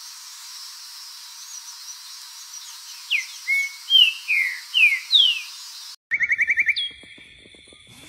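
Saltator singing a phrase of about six clear, slurred whistles starting about three seconds in, over a steady hiss. After a sudden cut near the end, a quick trill of about eight notes follows, then a held whistle.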